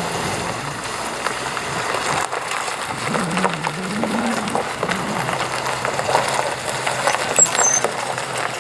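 A car engine running at low speed as a car moves past, its note rising and falling again about three to four seconds in.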